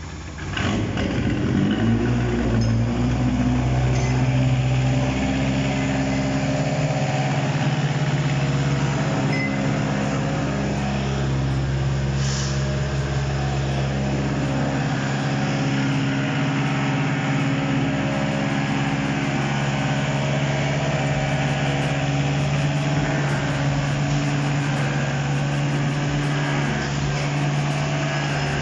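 Toyota 2AZ 2.4-litre inline-four petrol engine on a test stand starting up about half a second in, on its first run, then settling into a steady idle.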